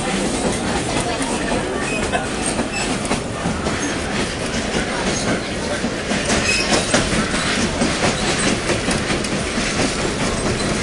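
Passenger train rolling along, heard from aboard a car: a steady rumble of wheels on rail with clacking over the rail joints and a few brief high wheel squeals.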